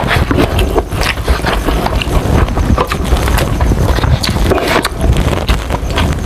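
Close-miked chewing and eating sounds: dense, irregular crackles and wet mouth clicks.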